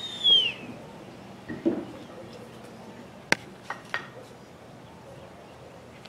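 Birds calling outdoors: a high whistled call that slides down in pitch and ends about half a second in, then a short low call a little later. A few faint clicks follow over a steady low background.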